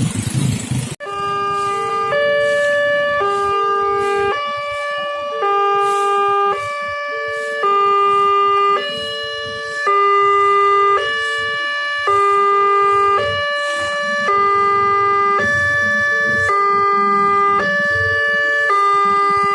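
Electronic warning alarm of a WANTECH railway level crossing: a sequence of clear electronic notes, each about a second long, stepping between a few pitches in a repeating pattern. It follows about a second of road traffic noise that cuts off abruptly.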